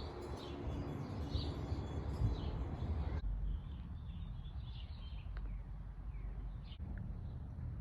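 Backyard birds chirping, short high calls repeating throughout, over a low steady outdoor rumble. The background changes abruptly about three seconds in.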